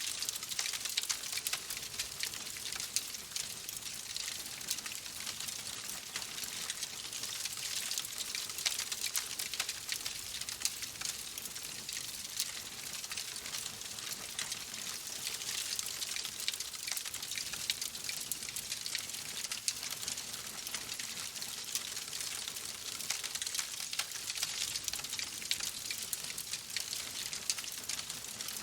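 Wood fire crackling steadily in a fireplace: a dense run of small pops and snaps over a soft hiss.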